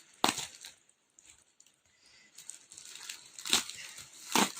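Shipping package being torn open and crinkled by hand: a sharp rip just after the start, then crinkling with two more loud rips near the end.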